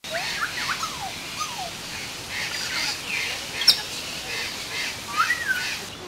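Several birds chirping and calling with short sliding whistles, one rising-then-falling whistle near the end, and a sharp click about three and a half seconds in.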